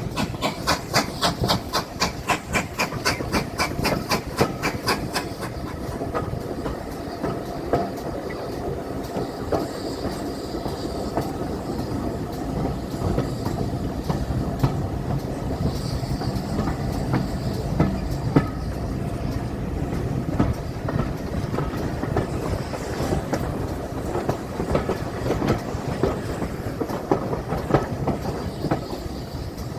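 Train running on the rails: a fast, even beat for about the first five seconds, then a steady rumble with scattered wheel clicks.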